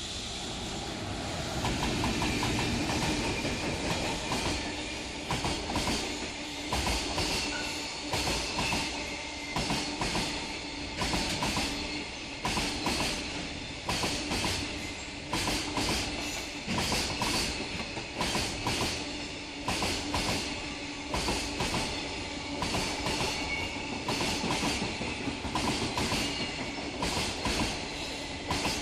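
A JR freight train passing close by. Its wheels clatter over the rail joints in repeated groups of clicks about once a second, over a steady rumble.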